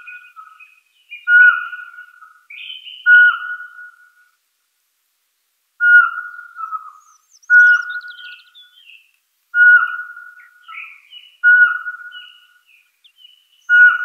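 Birdsong: a clear whistled note held on one pitch, repeated about every two seconds, with higher chirps and quick trills between the notes. The song breaks off for about a second and a half a little after four seconds in.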